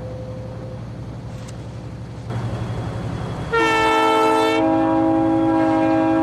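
Low diesel rumble of the Union Pacific rotary snow plow train, growing louder about two seconds in. About a second later a multi-tone train air horn sounds a long chord, which shifts in pitch about a second after it starts and then holds.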